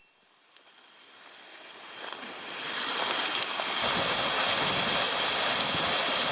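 Small waterfall on a creek, with a steady rush of falling water that fades in over the first three seconds and then holds steady.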